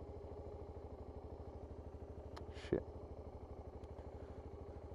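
BMW G650GS single-cylinder engine running at a steady low speed, its firing pulses even. A single short, sharp knock sounds about halfway through.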